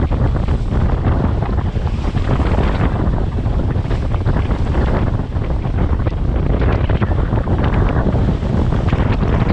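Strong wind buffeting the microphone in a loud, steady low rumble, with waves splashing and water rushing past a catamaran under sail.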